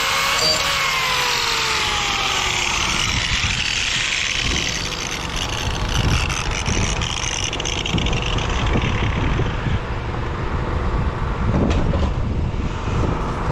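A road vehicle passing, its engine tone falling in pitch in the first two seconds, followed by a steady low rumble of outdoor noise.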